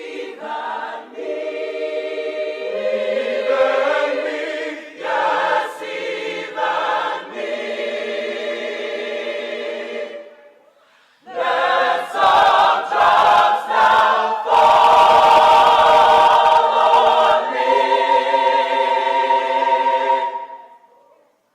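Church choir singing two long phrases with a short break about halfway through, the final chord held near the end.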